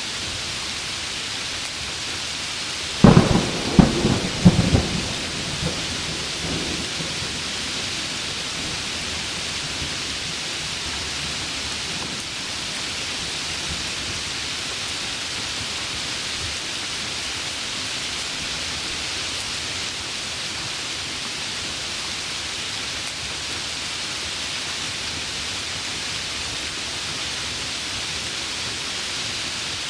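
Heavy rain falling steadily, with a clap of thunder about three seconds in: a few sharp cracks and rumbles over about two seconds that die away, then the rain alone.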